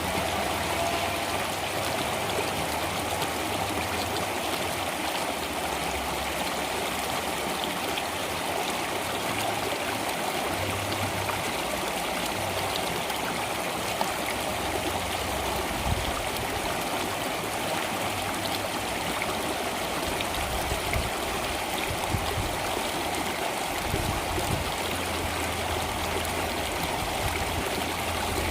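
Flowing water of a stream, a steady, even rush.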